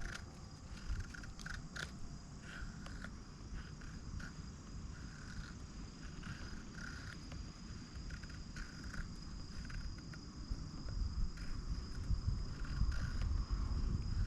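Insects singing: a steady high-pitched trill with short, uneven chirps lower down, over a low rumble. A few faint clicks come about two seconds in.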